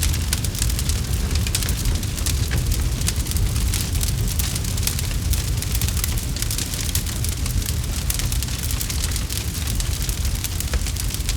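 Campfire crackling: dense, irregular pops and snaps of burning wood over a steady low rumble.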